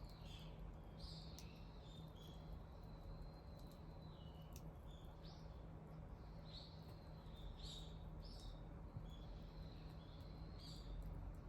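Small birds chirping in short high calls about once a second, over the faint crackle and occasional pop of a wood bonfire, with a low steady hum underneath.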